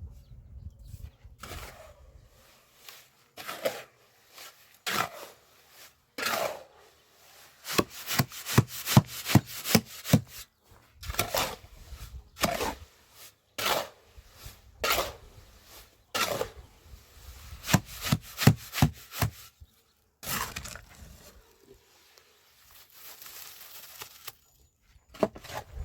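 Irregular series of sharp knocks on wood, some coming in quick runs of several a second with short pauses between, and a softer scraping sound near the end.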